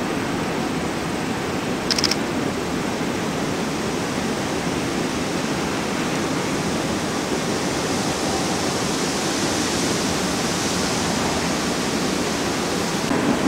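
Union Pacific manifest freight train's cars rolling across a long steel viaduct, a steady distant roar of wheels on rail, with a brief cluster of clicks about two seconds in.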